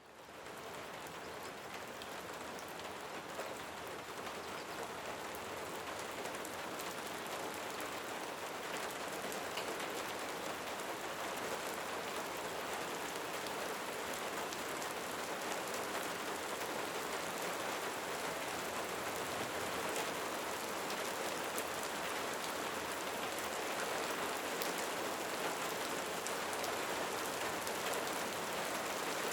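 Steady rain falling, an even hiss with scattered sharper drop ticks, fading in over the first second.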